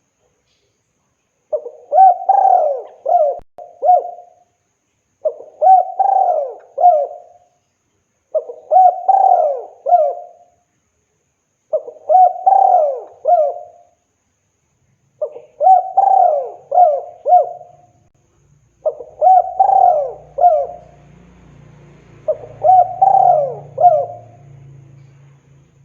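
Spotted dove (tekukur) cooing: a phrase of three or four quick coos repeated seven times, about every three and a half seconds, as a male calling to a female. A faint low hum comes in during the second half.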